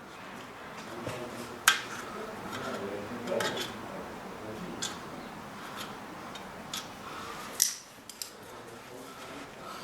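Scattered light metallic clicks and taps of hands and tools working on a bare motocross wheel rim, with one sharp click about two seconds in and another about three-quarters of the way through.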